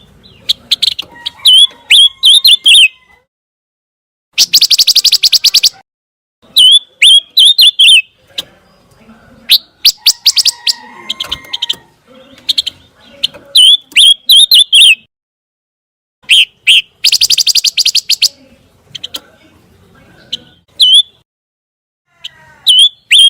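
Pancawarna bird singing: phrases of quick, sharp chirps with upward flicks, broken by short pauses, and two dense rapid trills, one about four seconds in and one near 17 seconds.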